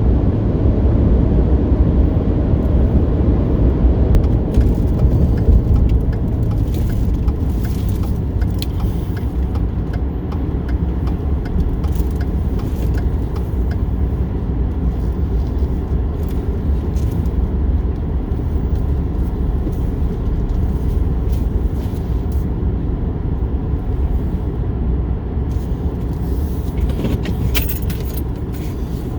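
Steady low road and engine rumble inside a moving car's cabin, with small jingling rattles and clicks scattered through it and a brief flurry of them near the end.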